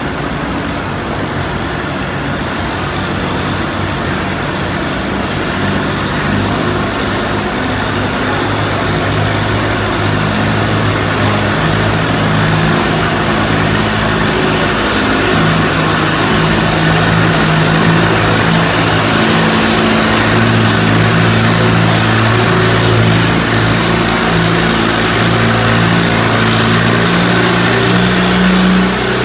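Antique farm tractor engine running hard, growing slowly louder, with its pitch shifting now and then; it drops off right at the end.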